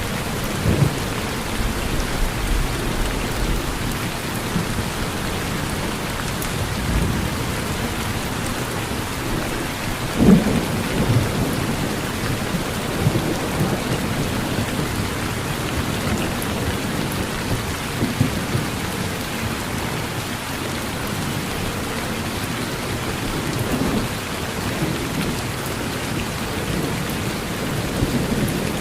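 Steady rain falling on a porch with low rumbles of thunder, the strongest rumble about ten seconds in.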